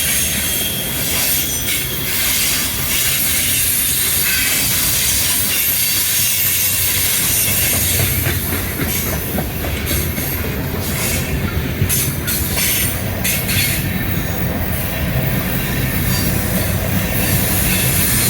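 Freight train cars rolling past, with steel wheels clicking over the rail joints and squealing on the rails; a steady, loud passing-train noise.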